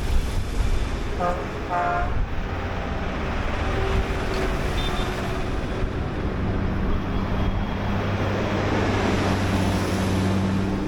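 Tractor and truck engines running as the vehicles drive past in a procession, with a steady engine drone that builds from about halfway through.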